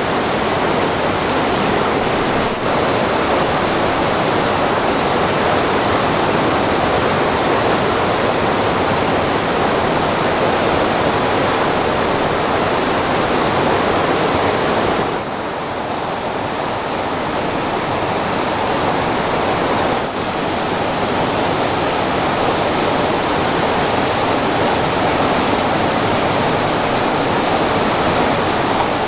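Mountain stream water rushing and splashing in a steady, loud wash, dropping slightly in level about halfway through.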